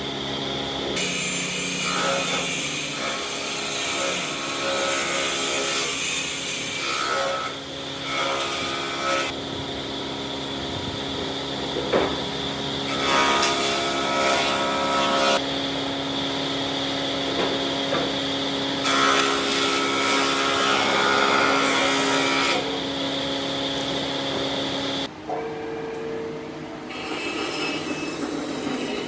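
Power tools working wood: a steady machine hum with sawing and rubbing noise. The sound changes abruptly every few seconds, as one short workshop clip cuts to the next.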